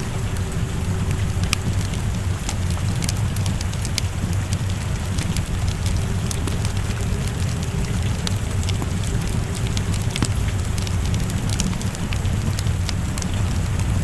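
Wood fire in a fireplace crackling, with frequent sharp pops, over a steady bed of falling rain and a low rumble.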